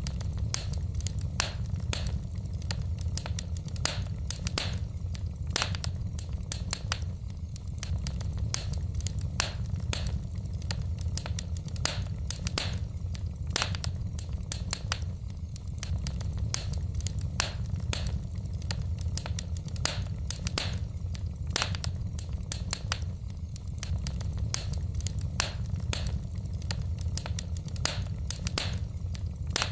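Wood fire in a fireplace crackling: frequent irregular pops and snaps over a steady low rumble.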